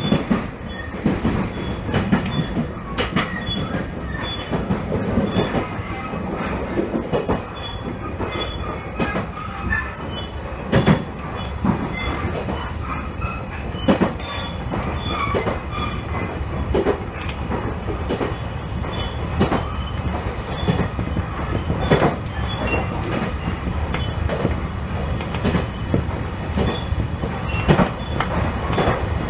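Train running along the line: a steady rumble of wheels on rail, with irregular clacks as the wheels cross rail joints.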